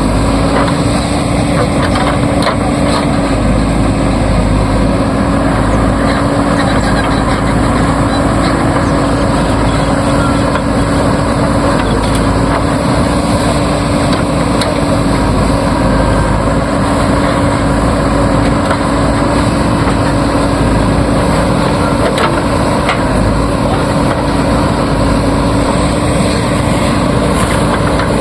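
Diesel engine of heavy earthmoving machinery running steadily under working load, with an even, unbroken hum.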